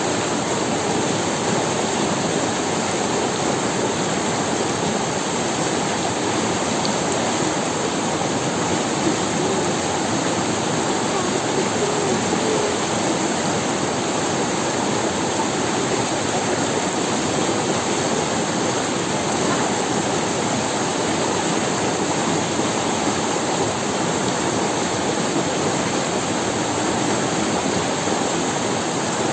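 Steady rush of a river's water running over stones, with no pauses or separate events.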